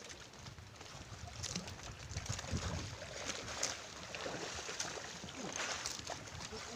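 Water sloshing and splashing against a small fishing boat's hull, with irregular splashes and knocks, a little louder from about two seconds in.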